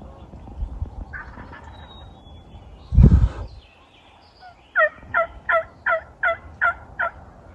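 A dull thump about three seconds in, then a run of seven evenly spaced turkey yelps, about three a second, each breaking from a higher note down to a lower one.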